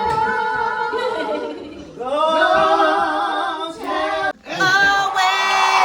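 Several voices singing together without instruments, with a short break about four seconds in.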